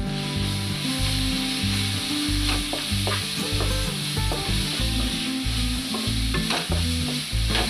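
Grated raw mango frying in hot oil in a non-stick kadai: a steady sizzle, with a wooden spatula stirring and scraping it through the pan.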